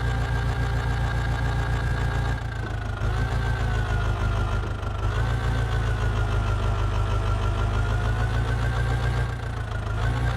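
Heavy diesel engine running steadily, with a high whine over it. Both dip briefly twice, as if the engine is loaded.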